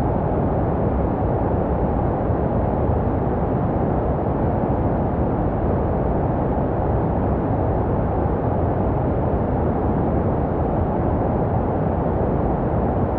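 Steady, muffled white noise for soothing a baby to sleep, heaviest in the low and middle range and dull at the top, with no changes. It is meant to sound like what a baby hears inside the womb.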